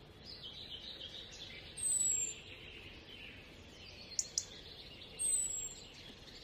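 Birds singing: continual faint twittering, with a loud high whistle falling in pitch twice, about three seconds apart, and two short sharp chirps a little after four seconds in.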